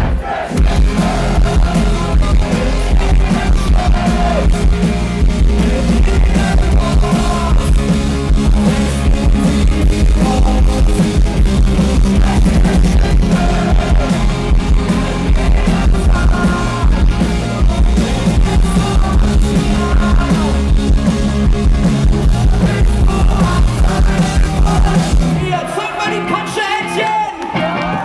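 Rock band playing live through a big PA, loud, with singing, electric guitars and a heavy drum-and-bass beat. About two and a half seconds before the end the bass and drums drop out, leaving a thinner sound with yelling.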